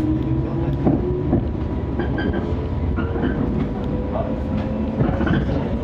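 Electric train heard from inside the car, its traction motor whine rising slowly in pitch as it gathers speed over a steady running rumble. A few sharp knocks of the wheels over rail joints sound about a second in, again shortly after, and near the end.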